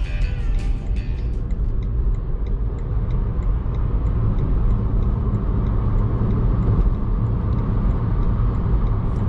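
BMW i3s electric car accelerating hard: a steady low road and tyre rumble with wind noise, growing a little louder over the first several seconds, and no engine note.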